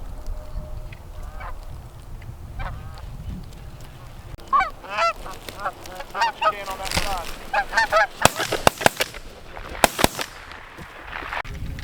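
Geese honking, a few single calls at first, then many overlapping calls about halfway through. A cluster of sharp cracks follows near the end, about six in two seconds.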